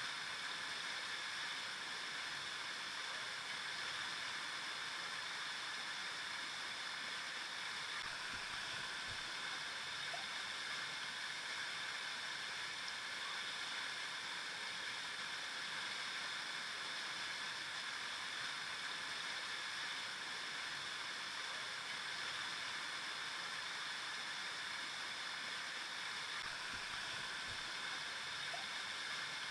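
River flowing: a steady, unbroken rush of running water.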